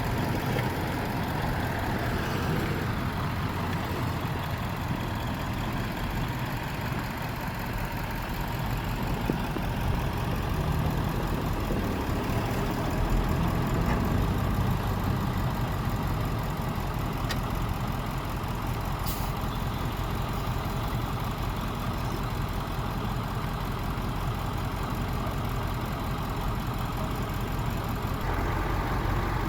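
Truck engine running steadily with a low rumble, swelling slightly about halfway through, with a couple of faint clicks.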